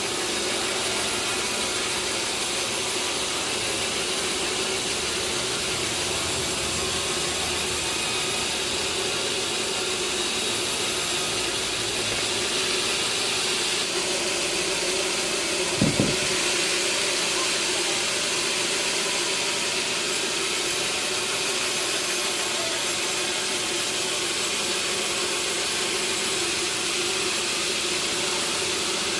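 Sawmill machinery running with a steady noise, with a single knock about halfway through.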